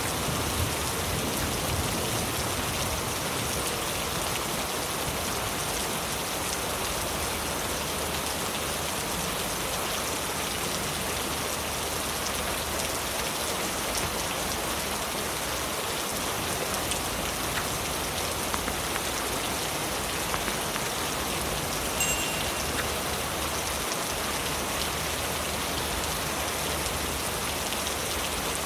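Heavy rain falling steadily on leaves, loud and even throughout, with one brief sharp click about 22 seconds in.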